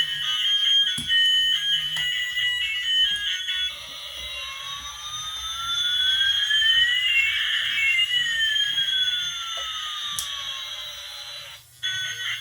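High electronic beeps playing a quick stepped melody. A few seconds in, it gives way to a long sweeping tone, one pitch rising and another falling until they cross. The melody cuts back in near the end.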